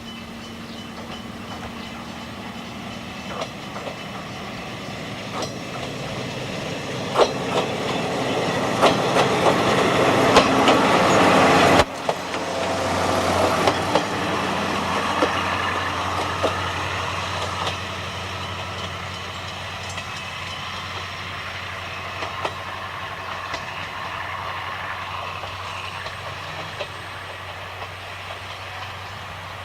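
A train running on jointed track, the clickety-clack of its wheels over the rail joints getting louder as it comes closer. About twelve seconds in the sound cuts off suddenly and gives way to more train running with a low steady hum, slowly fading.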